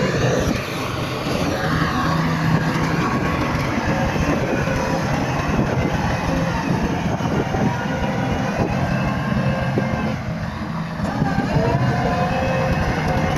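Bulldozer's diesel engine running steadily under load, with a dense rattle from its steel tracks.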